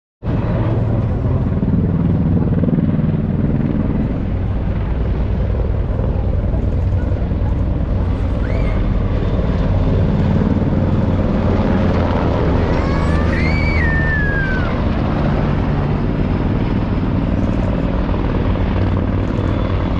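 Military helicopter's rotors and turbine engines running steadily overhead as a loud, continuous drone. Brief high whistling calls rise and fall over it about 8 seconds in and again around 13 seconds in.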